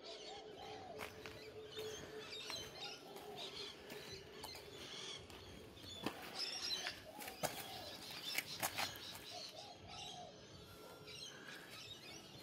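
Birds calling and chirping, with a few sharp clicks between about six and nine seconds in.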